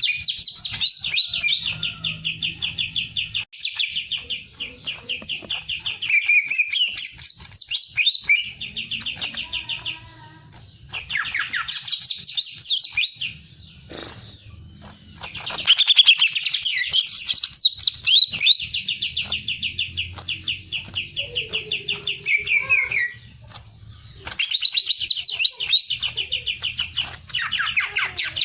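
A songbird singing long runs of rapid, evenly repeated chirping notes in phrases several seconds long, broken by short pauses and mixed with higher sweeping notes.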